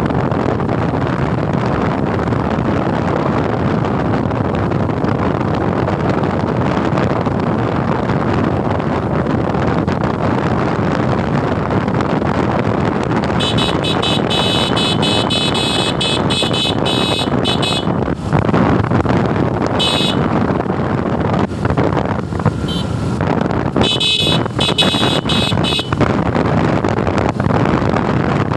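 Steady wind rush and engine noise of a Suzuki Gixxer motorcycle being ridden. A vehicle horn honks several times in the second half, the first honk lasting a few seconds and the later ones shorter.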